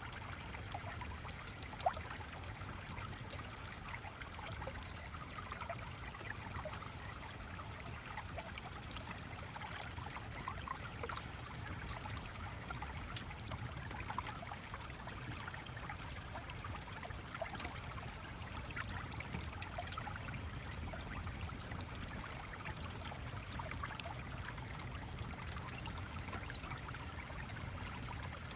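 A small stream flowing with a steady trickling babble. A single sharp click comes about two seconds in.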